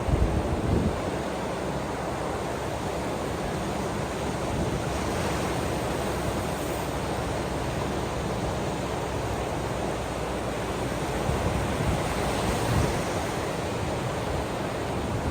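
Ocean surf washing steadily on the shore, an even rush of water, with a few heavier low surges near the start and about twelve seconds in.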